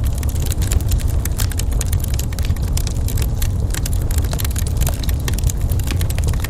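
Wood fire in a fireplace crackling, with many quick pops and snaps over a low, steady rumble.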